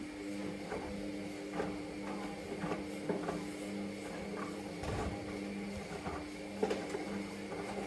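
Hoover Vision Dynamic front-loading washing machine running early in a wash cycle: a steady motor hum that swells and drops as the drum turns, with faint irregular knocks from the load tumbling.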